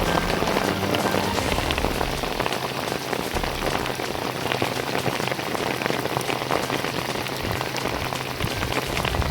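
Heavy rain falling, a dense patter of drops, with a faint steady low hum underneath.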